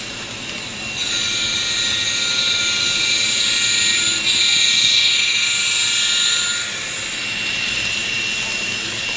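An N-scale Kato P42 locomotive's MRC sound decoder sounds its diesel horn. The horn is a chord of several steady notes, held from about a second in until nearly seven seconds. It plays over a steady hiss of the decoder's engine sound and the train running on the track.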